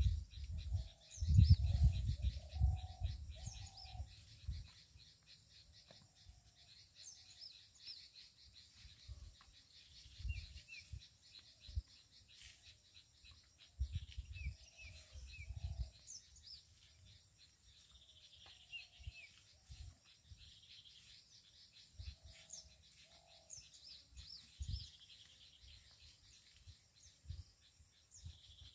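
Birds chirping and singing on all sides, with short lower call notes in small groups of two to four. Low rumbling bursts, loudest in the first few seconds, come and go beneath them.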